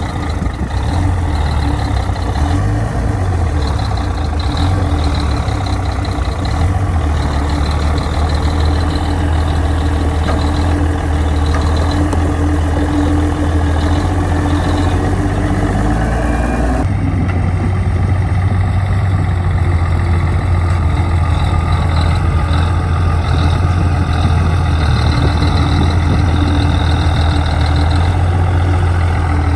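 Bulldozer's diesel engine running loud and low, its speed wavering up and down for the first several seconds, then holding steady. About halfway through, the sound changes abruptly.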